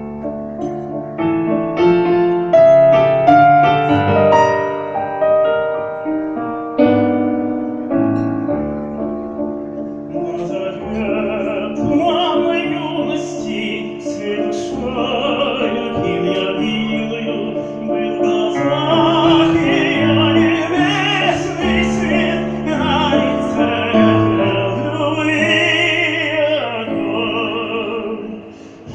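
A solo piano plays an introduction. About ten seconds in, a trained operatic voice with strong vibrato starts singing over the piano accompaniment.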